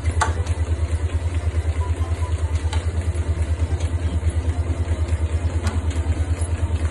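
An engine idling: a steady low throb pulsing evenly at about ten beats a second.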